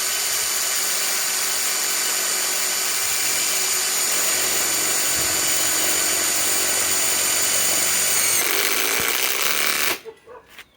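Ryobi PSBIW25 compact impact wrench running steadily as it drives a 5/16 by 3 inch galvanized lag screw into wood. It takes a long time to go in because the hole is not pre-drilled. The pitch drops slightly shortly before the tool cuts off near the end.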